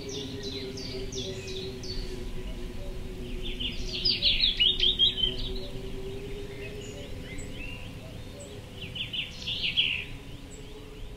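Songbird singing three phrases of rapid, high chirping notes, the loudest about four to five seconds in. A low steady hum runs beneath.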